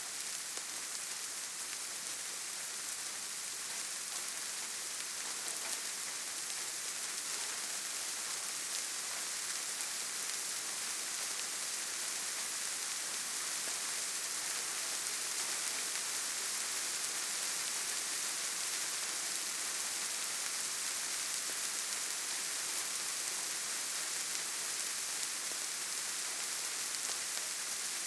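Steady rainfall, a dense even hiss of drops pattering on foliage and ground without pause.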